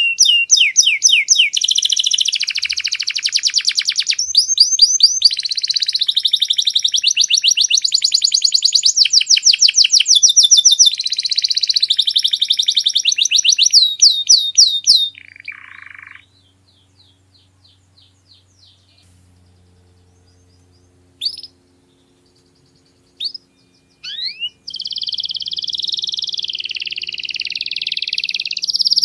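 Domestic canary singing: long runs of rapid, fast-repeated high trills that change from one phrase to the next. About halfway through the song breaks off for several seconds with only a few scattered single notes, then resumes near the end.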